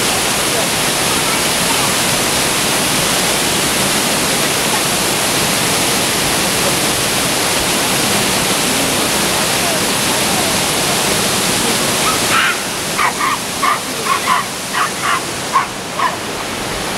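Waterfall rushing, a steady loud roar of falling water. About twelve seconds in, the rush drops away and a run of short, sharp animal calls follows, two or three a second.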